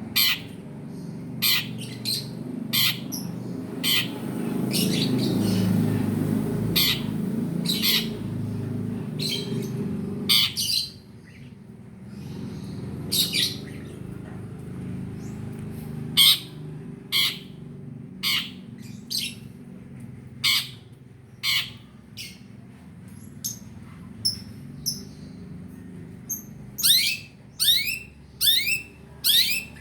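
Long-tailed shrike (pentet) calling: short, sharp, harsh notes spaced about a second apart over a low rumbling background, then a quicker run of downslurred notes near the end.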